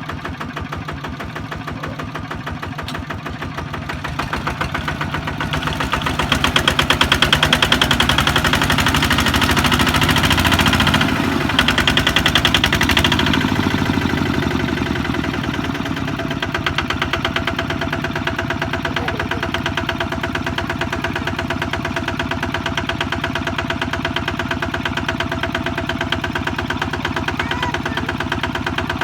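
Kubota ZT155 single-cylinder diesel engine running with a steady, fast chug. It gets louder from about five seconds in and drops back after about thirteen seconds, then runs on evenly.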